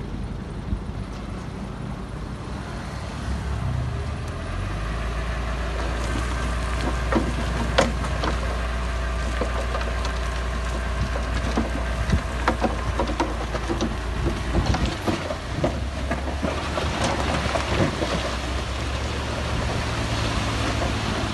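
Heavy diesel construction machinery running steadily, its engine note stepping up about four seconds in. From about six seconds until near the end comes an irregular clatter of knocks and thuds of rock and metal.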